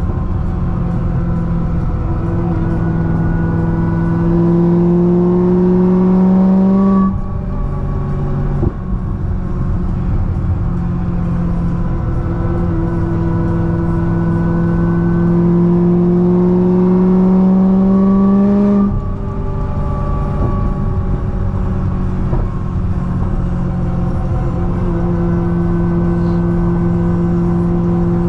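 Supercharged V8 of a 1000 hp C6 Corvette ZR1 with a Kong 2650 supercharger, pulling hard on the highway. Its pitch climbs slowly, drops sharply at an upshift about 7 seconds in, climbs again to a second upshift near 19 seconds, then holds steady.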